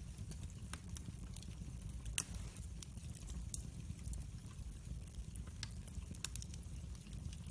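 Wood fire burning: a steady low rumble of flames with irregular crackles and pops, one sharper crack a little over two seconds in.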